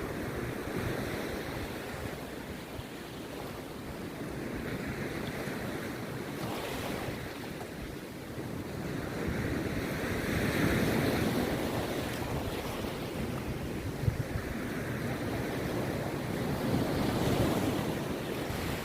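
Rough sea waves breaking and washing up the beach, swelling in surges every few seconds, with one brief sharp click about three-quarters of the way through.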